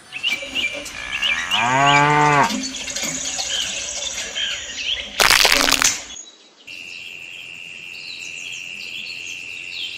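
A cow mooing once, a single low call lasting about a second, with birds chirping in the background. About five seconds in there is a short, loud burst of noise.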